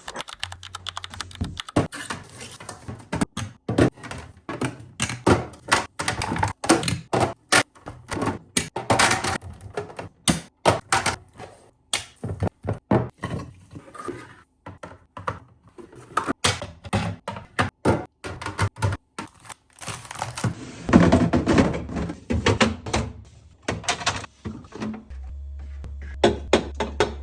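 Rapid clacks, knocks and clicks of containers being handled and set onto refrigerator shelves as a new fridge is arranged, with a denser burst of handling noise about three-quarters of the way through.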